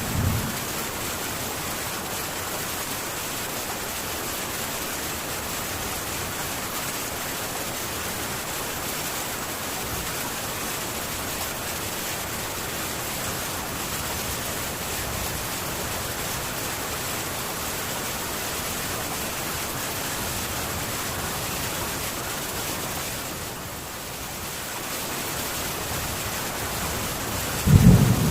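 Steady, even hiss of heavy rain on a metal tin roof, with no thunder until a loud low rumble of thunder starts just at the end.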